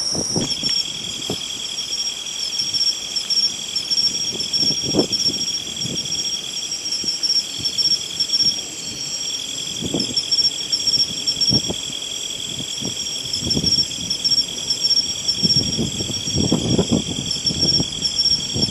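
Several insects singing together in steady, unbroken high-pitched trills at different pitches, a lower one joining about half a second in, with gusts of wind buffeting the microphone.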